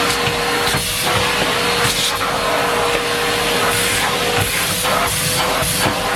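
Numatic Henry Pet vacuum cleaner running, its motor giving one steady whine over loud rushing air, with the hiss of the airflow swelling and fading every second or so.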